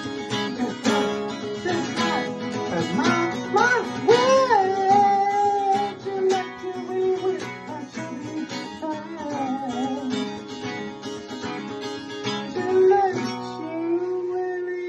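Acoustic guitar playing a strummed song accompaniment, with a long held note that wavers in pitch about three seconds in and another held note near the end.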